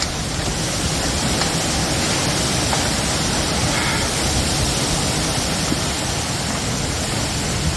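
Heavy rain and strong wind of a severe thunderstorm: a steady, even rushing hiss with no thunderclap.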